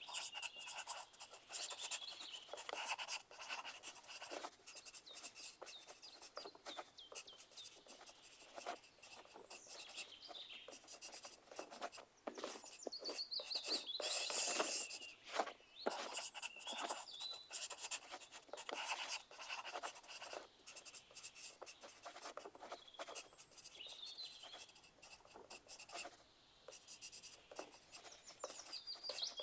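Pencil writing on paper: a continuous run of irregular scratching strokes, with a busier stretch about halfway through.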